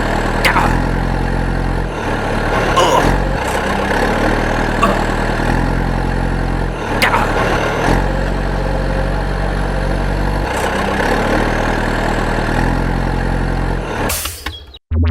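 Small mini-tractor engine running steadily. Its low hum steps between a few steady levels every second or two, and it cuts off suddenly just before the end.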